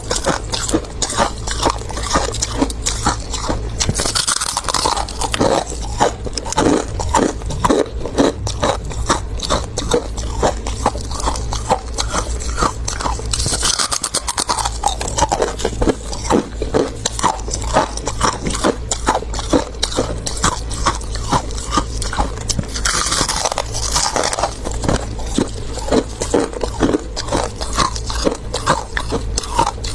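Close-up chewing and crunching of mouthfuls of freezer frost, many quick crunches in a row, with three longer scraping sounds: about four seconds in, in the middle, and near the end.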